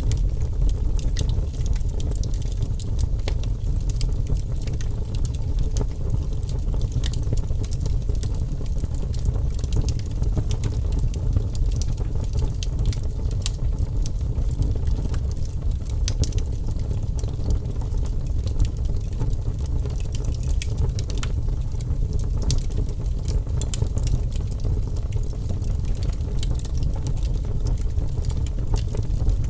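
Wood fire in a fireplace crackling: frequent sharp pops and snaps over a steady low rumble of the flames.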